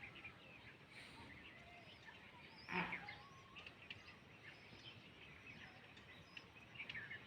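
Faint chirping of many small birds throughout, with one short, louder sound about three seconds in.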